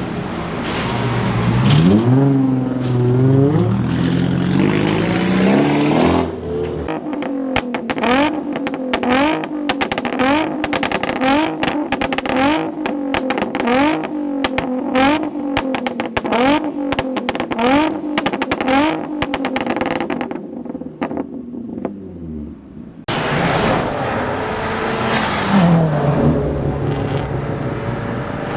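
Japanese performance car engines accelerating and revving hard. First one climbs through the gears. Then an engine is blipped again and again, about once a second, with a rapid string of sharp crackles. Near the end another car accelerates away.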